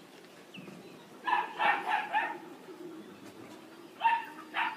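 A dog barking in short yips, a quick run of about four a second or so in, then two more near the end.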